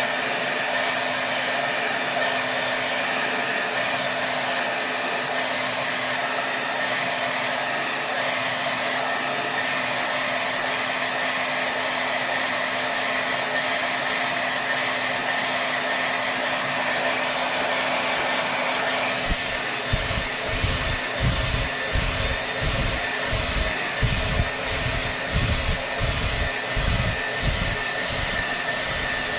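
Hair dryer blowing steadily at full power: a wide, even rush of air over a steady motor hum. About two-thirds of the way in, irregular low thumps, roughly two a second, join the rush.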